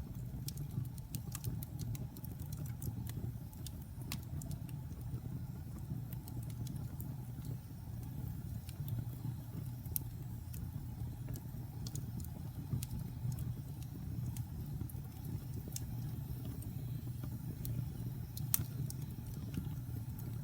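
Wood fire burning in a fireplace: a steady low rumble of the flames, with irregular sharp crackles and pops from the burning wood and one louder pop near the end.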